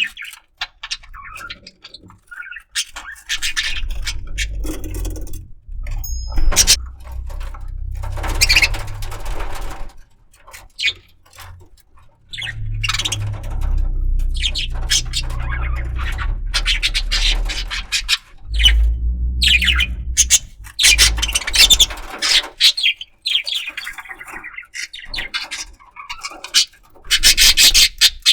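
Budgerigar chirping and squawking in short, repeated high calls, mixed with short clicks and scrapes. A low rumble runs beneath for long stretches.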